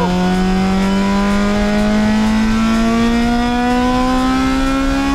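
Honda K20A four-cylinder engine in a K-swapped Civic screaming under hard acceleration, its revs climbing steadily through one long pull in a single gear.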